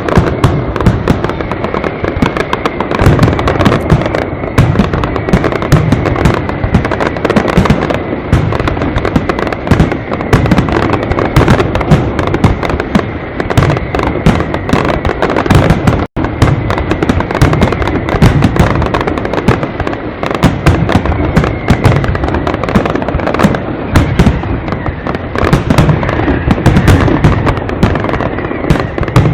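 Castillo aerial fireworks display: a dense, unbroken barrage of bangs and crackles, with the sound cutting out for an instant about halfway through.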